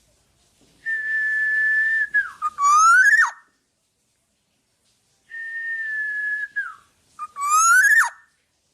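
Black-naped oriole singing fluty whistled phrases, twice: each a long level whistle that falls off at its end, followed by a quick note that rises and then drops sharply, with silent pauses between.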